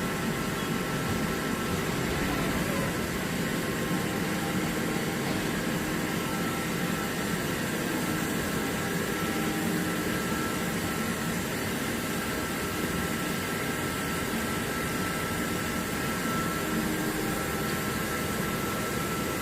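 Mori Seiki NL-2000SY/500 CNC lathe running under power: a steady mechanical hum and hiss with one constant high-pitched whine.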